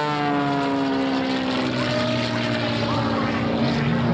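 Propeller airplane flying past, its engine drone dropping in pitch in the first second, then holding steady.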